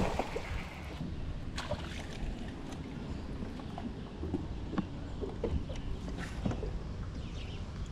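Small knocks, clicks and splashes on a john boat while a hooked bass is being fought and reeled in, over a steady low rumble of wind and water.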